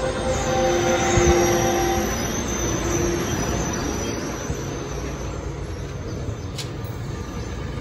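Metrolink commuter train of bilevel coaches rolling past at a station platform, its wheels and cars rumbling steadily on the rails. A thin squeal rides over it in the first two seconds or so, and a single sharp click comes near the end.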